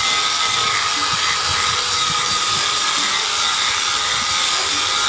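Small electric power tool running steadily under load with a high, even whine, working the wood of a bird cage.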